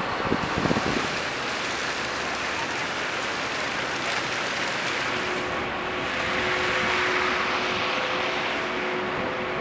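Steady rushing noise of wind and traffic in a snowstorm, with low buffets of wind on the microphone in the first second and a faint steady whine joining about halfway through.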